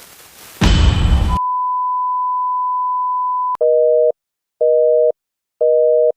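A brief burst of loud hiss, then a steady single-pitch beep held for about two seconds, then a telephone busy signal: a two-note tone pulsing on and off about once a second, three pulses.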